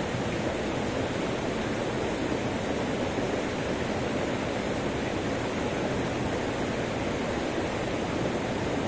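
Waterfall: a steady rush of falling water, deep and even, without a break.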